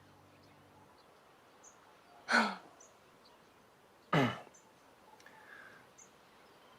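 Two brief breathy vocal sounds, like a sigh or a short exhale, about two seconds apart and each falling in pitch, over a quiet background with faint high chirps about once a second.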